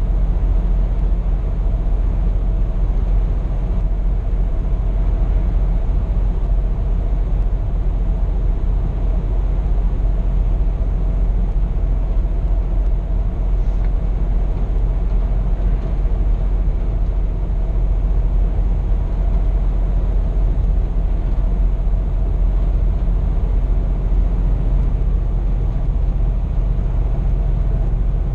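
Cab noise of a Scania P420 truck cruising: its straight-six diesel and the road and tyres make a steady low drone with no change in pace.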